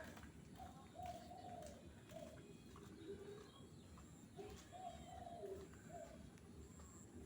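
A dove cooing: two phrases of short coos, the second beginning about four seconds in.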